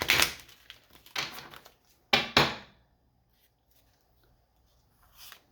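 Oracle cards being handled: three short papery rustles of card stock within the first three seconds, with a faint one near the end.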